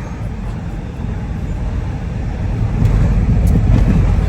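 Road and engine noise inside a moving car's cabin: a steady low rumble that grows louder about three seconds in.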